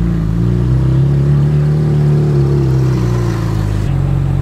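Ferrari 458 Italia's V8 with a Novitec aftermarket exhaust running at low revs, its pitch rising a little and falling back as the car moves off slowly. Near the end the sound switches abruptly to a steady idle.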